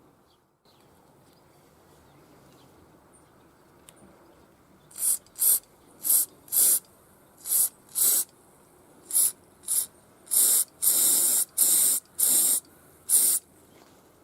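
A pressurised spray nozzle hissing in a dozen or so short bursts, the first about five seconds in, with a few slightly longer bursts near the end.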